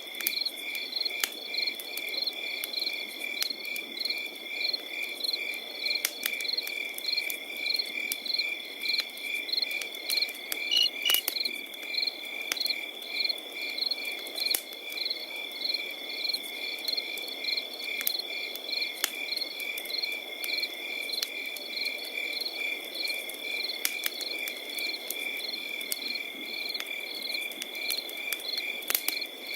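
Crickets chirping in a steady pulsing rhythm, a few chirps a second, over a continuous high insect trill, with a campfire crackling and popping in scattered sharp snaps and a soft hiss beneath.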